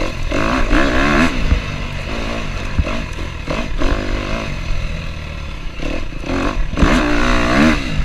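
KTM 250F four-stroke single-cylinder dirt bike engine revving up and down in repeated bursts under throttle on a trail ride, with some clatter, loudest about a second in and again near the end.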